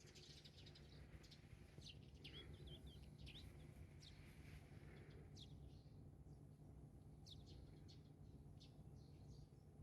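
Near silence: quiet room tone with a low hum and faint, scattered short high chirps.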